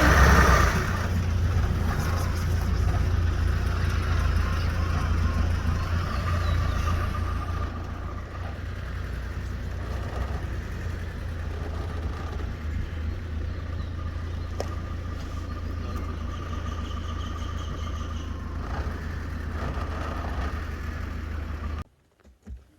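Safari vehicle's engine running with a steady low rumble, loudest right at the start, and cutting off abruptly near the end.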